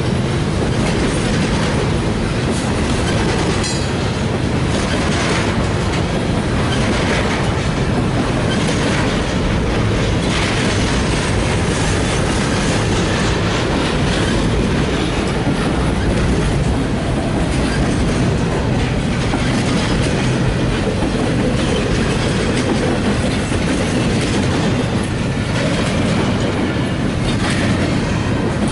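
Double-stack intermodal freight cars rolling past on the track: a steady, loud rumble of steel wheels on rail, with wheels clacking over the rail joints.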